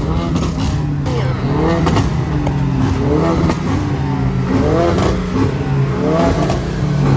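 A car engine running steadily with repeated rises and falls in pitch as it is revved, over the voices of a crowd.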